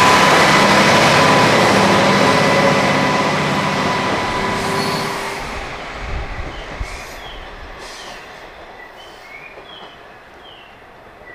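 KiHa 40 diesel railcar running on the rails with a steady high wheel squeal, its sound fading away over about ten seconds.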